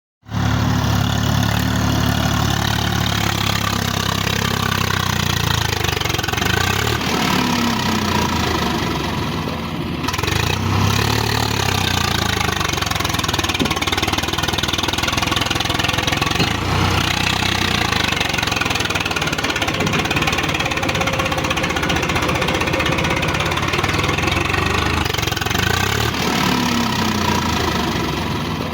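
Diesel tractor engine running steadily, its pitch rising and falling a few times as it is revved up and eased back.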